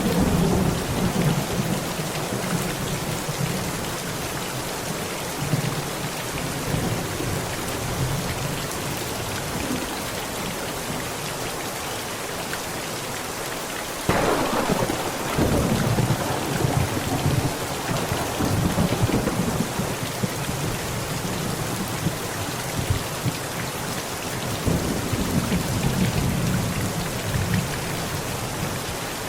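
Heavy rain falling steadily on a tent, with thunder rumbling throughout. About halfway through, a sudden thunderclap strikes, followed by long rolling rumbles.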